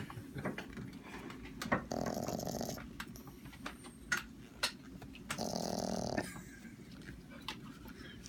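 Small dog snoring loudly, with two snorting snores each lasting about a second, the first about two seconds in and the second about five and a half seconds in. The owner puts the loud snoring down to the odd position of his neck.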